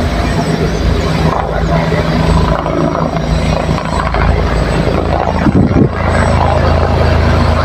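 Helicopter running with a steady low hum and rapid rotor pulsing, with a brief louder noise about five and a half seconds in.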